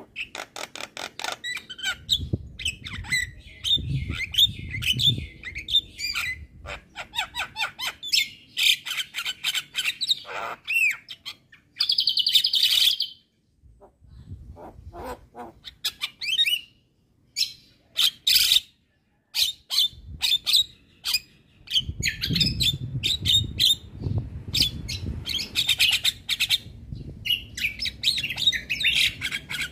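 Javan myna singing vigorously: a fast, chattering run of clicks, chirps and whistles, with one harsh buzzing note about twelve seconds in and brief pauses after it.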